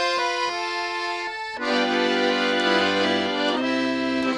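Accordion playing sustained chords and melody notes. The chord changes about one and a half seconds in, and a low bass note enters near the end.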